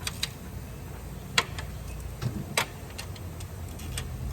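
Sharp metal clicks and clinks of a hand socket wrench on the intake manifold bolts as they are broken loose, a few scattered clicks with the loudest about a second and a half in and again near two and a half seconds, over a steady low hum.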